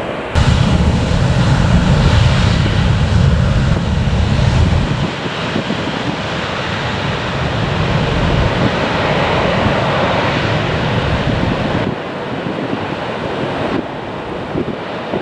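Jet airliner's engines roaring on departure, building to a peak about two-thirds through and dropping off sharply near the end. Heavy wind buffets the microphone for the first third.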